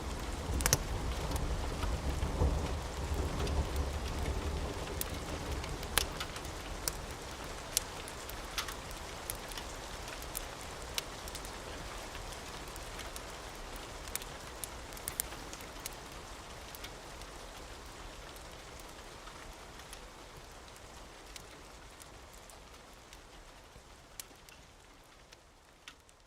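Steady rain with scattered sharp crackles and a low thunder rumble dying away in the first few seconds. The whole ambience fades out gradually, nearly gone by the end.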